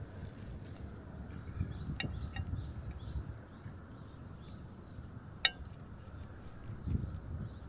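Outdoor ambience: a steady low rumble with faint bird chirps. Two sharp, ringing clinks, like metal or utensils knocking, sound about two seconds in and again at about five and a half seconds; the second is the louder.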